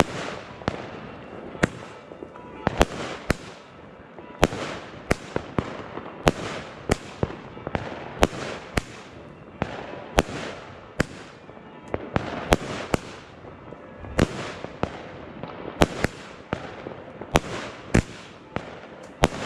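A firework battery (cake) firing shot after shot: sharp bangs at about one to two a second, unevenly spaced, with crackling between them.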